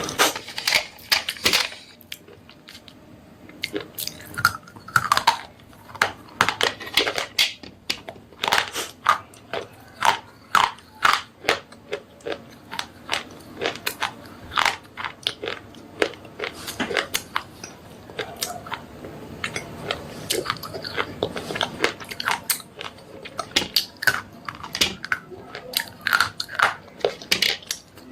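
Slate pencils being bitten and chewed close to the microphone: runs of sharp, rapid crunches with a couple of short pauses.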